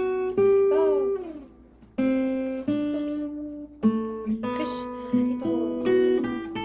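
Acoustic guitar strummed, a new chord starting roughly once a second and ringing out, with one note sliding down in pitch about a second in.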